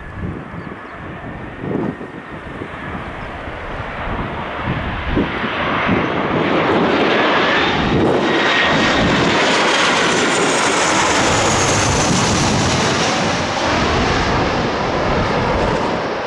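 Boeing 737-800's twin CFM56-7B turbofans passing low overhead on landing approach: the jet noise swells over several seconds to a long peak, and the engine whine falls in pitch as the aircraft goes past. Gusts of wind buffet the microphone in the first few seconds.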